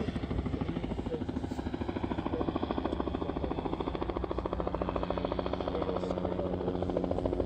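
An engine running steadily with a fast, even pulse, getting slightly louder near the end.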